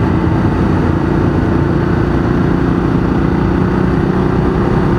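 Ducati Diavel 1200's L-twin engine running at a steady, even pace under way, heard from on board through its very loud aftermarket exhaust.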